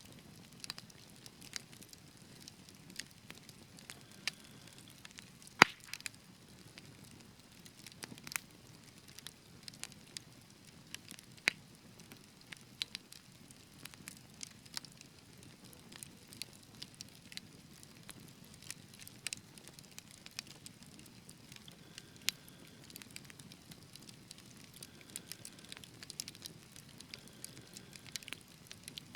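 Wood fire crackling: irregular sharp pops and snaps over a soft low rumble of flame, with one louder pop about five seconds in.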